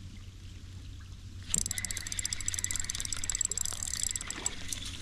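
Spinning fishing reel being worked, a rapid run of fine mechanical clicks and whirring that starts about a second and a half in and lasts about three seconds.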